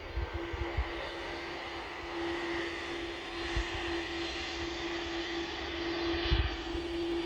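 Jet airliner engines heard across the airfield: a steady engine hum with a rushing roar that grows louder a couple of seconds in.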